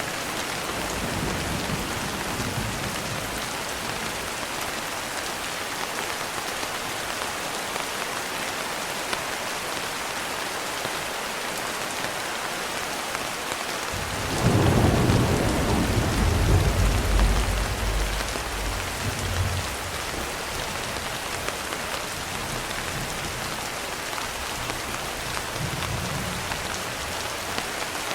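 Steady rain falling, an even hiss of drops. About halfway through, a low roll of thunder swells up and rumbles for several seconds before fading back under the rain, with fainter rumbles near the start and the end.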